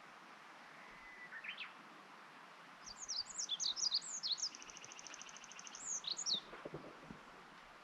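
A small songbird singing: a brief high call about a second in, then a rapid song of high, quickly falling notes with a fast trill in the middle, lasting about three and a half seconds.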